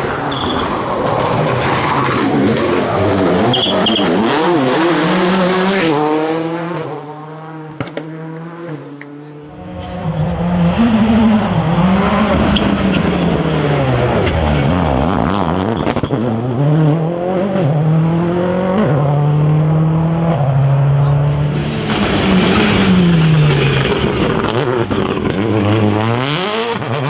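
Rally car engines at full throttle on a special stage. Each car's engine note climbs and drops through gear changes and lifts off the throttle. One car passes in the first six seconds and fades, and another comes in loud about ten seconds in.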